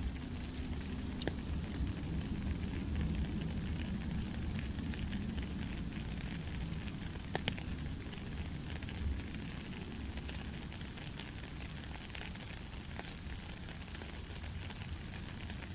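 Steady white noise for lulling a baby to sleep: an even hiss over a low rumble, with faint scattered crackles and a sharper click about halfway through.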